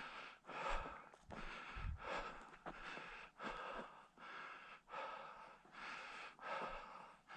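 Footsteps crunching in crusty snow at a steady walking pace, about ten crunchy steps.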